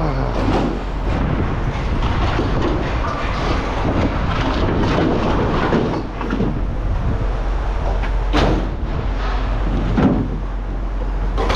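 A steady mechanical rumble with a strong low hum, scattered knocks, and two sharper metal clanks late on.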